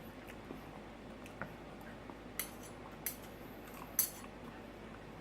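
Cutlery clicking against a plate a few times while eating, the sharpest click about four seconds in.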